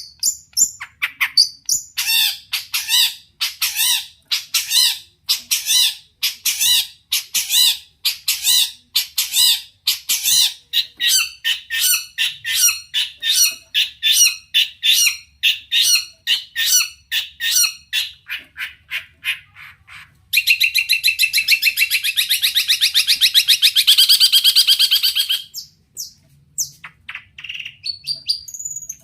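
Long-tailed shrike (cendet) singing: a long run of repeated short, sharp notes about two a second, then a dense rapid rattle for about five seconds, ending with a few scattered notes.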